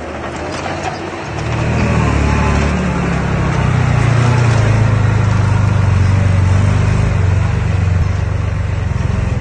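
Diesel engine of heavy earthmoving machinery running, getting louder about a second and a half in and then holding steady.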